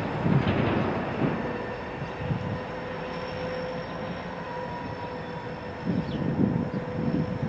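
Freight train moving slowly past: the cars rumble unevenly over the rails under a few steady, thin tones.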